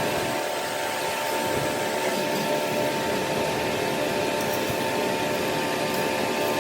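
A workshop machine running steadily with an even whine and hiss that holds level throughout.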